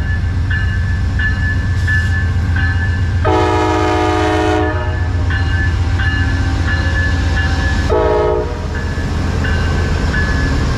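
Amtrak train rumbling by with its locomotive horn sounding a long blast about three seconds in and a short blast near eight seconds. A bell dings about twice a second throughout.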